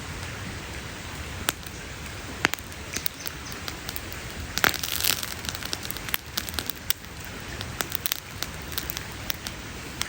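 Wood campfire crackling over a steady hiss, with scattered sharp pops and a denser flurry of crackling about halfway through.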